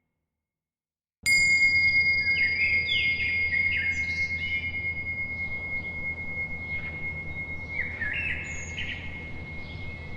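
Silence for about a second, then a bell is struck once and rings on in a long, clear, high tone. Songbirds chirp in quick clusters over it, against a low, steady ambient background.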